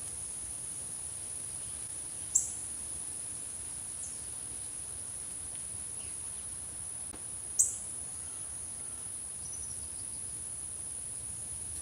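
Two sharp, high songbird chips about five seconds apart, each falling quickly in pitch, with a few fainter chirps between them, over a steady high-pitched insect drone.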